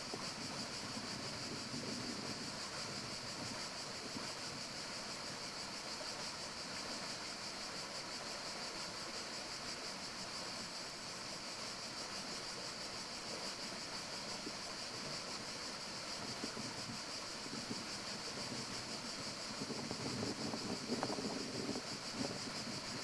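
Forest ambience: a steady breeze rustling leaves under a constant high-pitched hiss, with the rustling swelling louder near the end.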